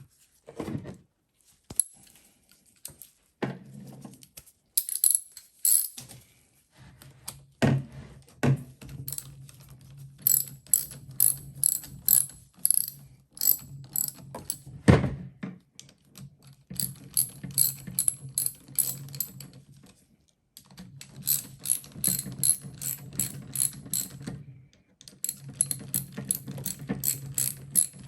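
Ratchet wrench clicking in several runs of about four clicks a second while bolts are driven into a Denso starter during a rebuild, with a couple of sharp metal knocks between the runs.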